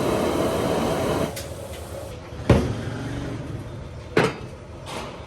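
A steady rush of water that cuts off about a second in, then two sharp knocks of kitchen things being handled.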